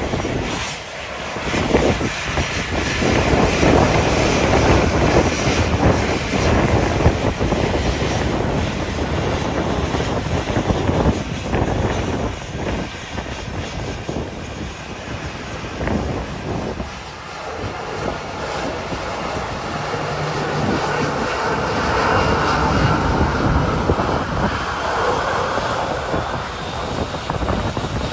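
Aircraft engines running loud as a plane moves on the runway, with a whine that rises in the second half. Heavy wind buffets the microphone throughout.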